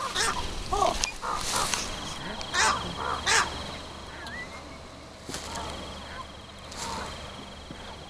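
Birds giving harsh, caw-like squawks, several in the first half with three loud ones, fading to a few softer calls later.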